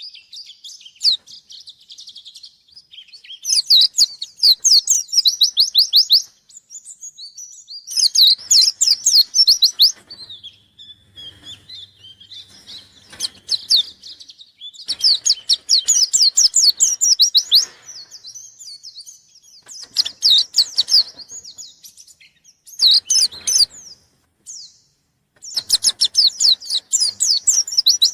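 Pleci (white-eye, Zosterops) in full song: loud phrases of rapid high-pitched trilled notes, each two to three seconds long and repeated every few seconds, with softer chirps in between.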